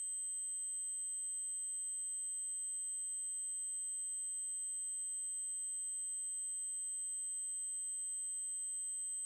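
Synthetic 8192 Hz triangle-wave tone: a single steady, very high-pitched tone that holds unchanged throughout.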